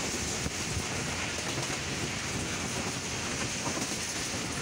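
Passenger train running along the line, heard from an open carriage doorway: a steady rush of wheels on rails and wind past the door, with a few sharp clicks from the wheels in the first second.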